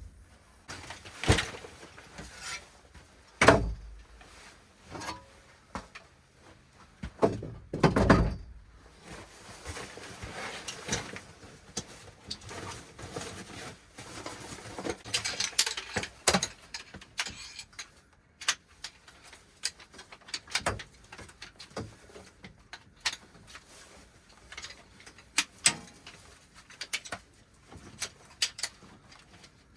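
Irregular knocks and thumps, the loudest two about 3.5 and 8 seconds in, with scattered clicks and rustling between them.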